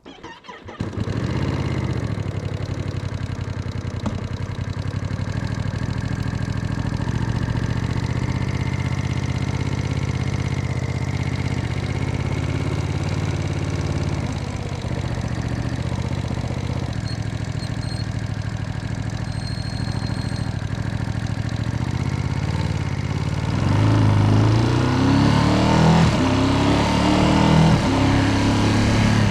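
Ducati Panigale V2S V-twin motorcycle engine starting about a second in and idling steadily, then revved with a series of short throttle blips over the last few seconds.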